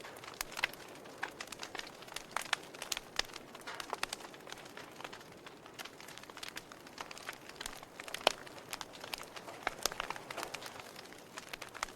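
Wood fire crackling: irregular sharp pops and snaps over a soft steady hiss, with the loudest pop a little after eight seconds in.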